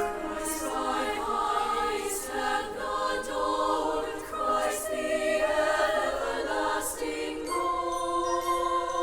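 Choir singing a Christmas piece with orchestra, the singers' hissed consonants standing out four times; about two thirds of the way in, the music settles onto long held chords.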